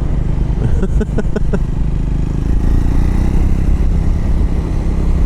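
Triumph Scrambler motorcycle engine running steadily under way, with a short run of quick pitched pulses about a second in.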